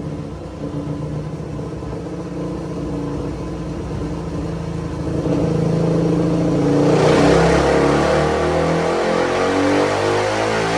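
Suzuki DR-Z400's single-cylinder four-stroke engine, breathing through an MRD exhaust, running on a dyno. It holds a steady speed at first. About five seconds in the throttle opens and it gets louder, then the pitch climbs steadily as it revs up through a dyno pull.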